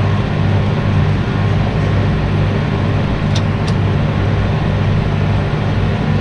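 Tractor engine running steadily at working speed, with two short clicks about halfway through.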